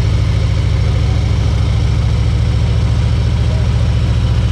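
Harley-Davidson Ultra Limited's V-twin engine running steadily at an even pitch, its exhaust pulsing evenly.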